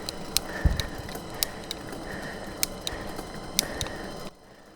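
Bicycle drivetrain clicking and rattling while riding: irregular sharp clicks, roughly two a second, over steady rolling noise that cuts off suddenly about four seconds in.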